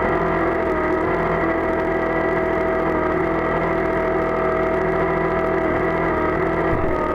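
An engine running steadily with a constant drone, its pitch shifting slightly near the end.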